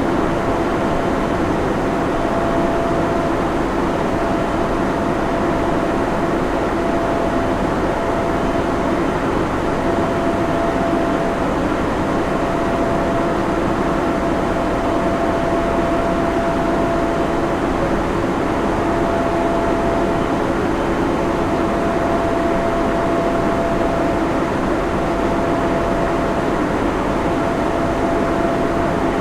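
Server room ambience: the steady rush of cooling fans and equipment hum, with a faint steady whine in it.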